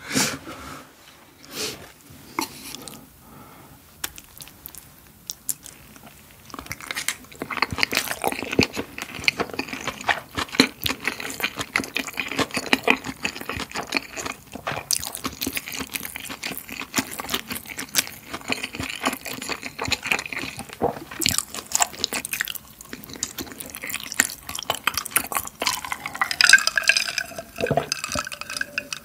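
Close-miked wet chewing and mouth sounds from eating soft, chewy rosé tteokbokki rice cakes in creamy sauce, a dense run of small smacks and clicks starting several seconds in. Near the end come swallows from a glass.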